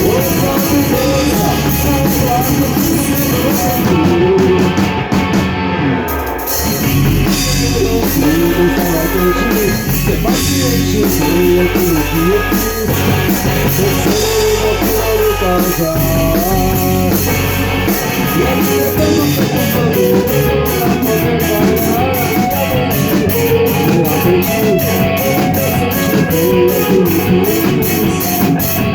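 Rock band playing live: electric guitar, bass and drum kit, with a voice singing. The cymbals drop out briefly about five seconds in, and from about nineteen seconds a steady hi-hat pattern drives the beat.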